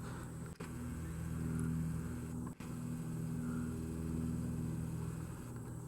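Single-engine propeller airplane flying low overhead, its engine a steady drone.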